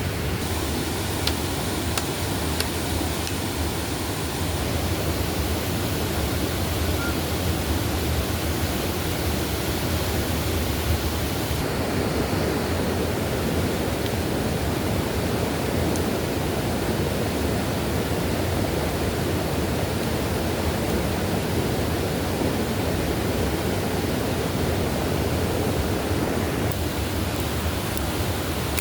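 Steady rush of a rain-swollen forest stream, the water flowing fast and even.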